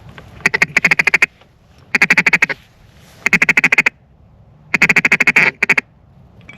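Duck call blown hard in four quick runs of rapid, evenly spaced quacks, each run about a second long, calling to ducks flying in.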